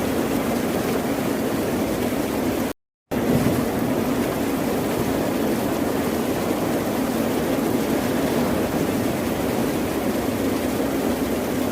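Steady, unbroken rushing of ocean surf without distinct wave surges. It cuts out to silence for a moment about three seconds in, then resumes.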